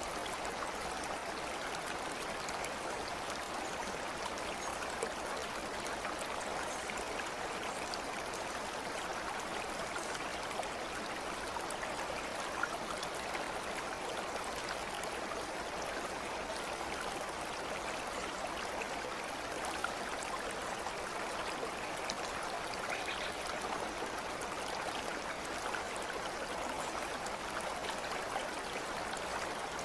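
Flowing water of a stream, a steady even rush without pauses.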